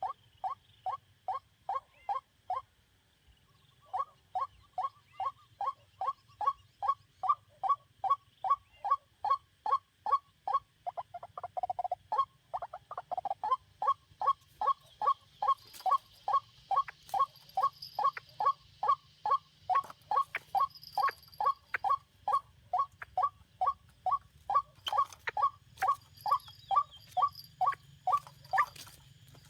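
White-breasted waterhen calling: a long, regular series of short harsh notes, about three a second, with one brief pause near the start.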